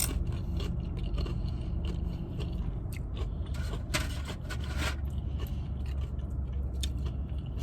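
Close-up eating sounds: chewing and crunching, with short scrapes and clicks of a utensil in a takeout bowl. A few louder clicks come about three to five seconds in, over a steady low hum.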